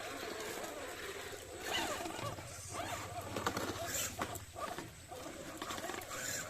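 Electric motor and gears of a 1/10-scale RC 4x4 crawler whining, the pitch rising and falling with the throttle, with short higher surges about four seconds in.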